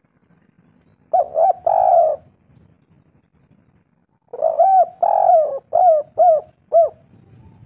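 Spotted dove (tekukur) cooing: a short phrase of three coos about a second in, then a longer phrase of drawn-out and clipped coos from about the middle to near the end.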